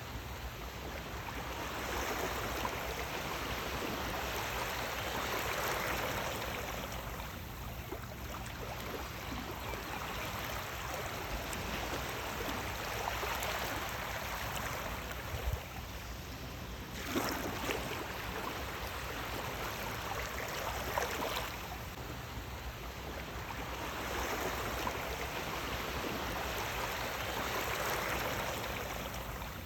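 Sea waves washing in and out: a steady rush of water that swells and ebbs every several seconds. There are a few sharper splashes about halfway through.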